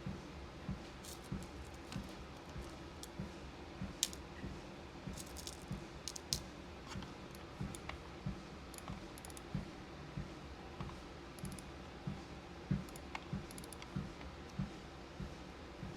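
Footsteps thudding evenly on a walking pad treadmill, about one and a half steps a second, over a steady low hum. Scattered small sharp clicks of beads and plastic bead containers being handled and sorted.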